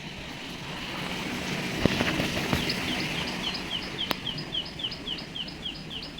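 A bird calling in a fast, even series of short, high, falling notes, about five a second, starting a little under halfway through, over a steady outdoor hiss. A few sharp clicks stand out, one about two seconds in and another about four seconds in.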